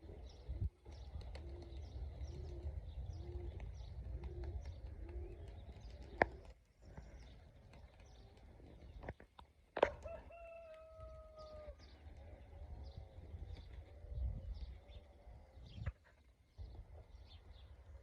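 Gusty wind buffeting the microphone, with pigeons cooing in a short run of low calls and small birds chirping faintly throughout. Two sharp claps, one about six seconds in and one about ten seconds in; right after the second comes a single long, level call from another bird.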